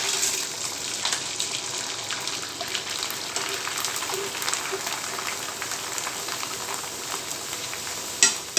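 Raw krupuk crackers deep-frying in hot oil in a pan: a steady sizzling hiss dotted with crackles as the crackers puff up. A sharp knock near the end.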